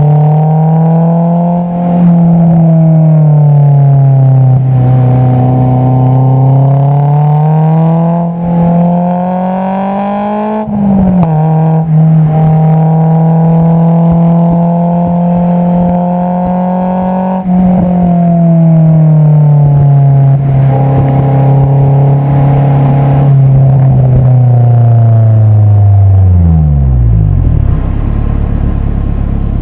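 Honda S2000's 2.2-litre inline-four heard at the tailpipe through an Invidia Q300 cat-back exhaust, driving under steady load. The engine note climbs, drops sharply at an upshift about a third of the way in, holds, then falls away to low revs near the end as the car slows.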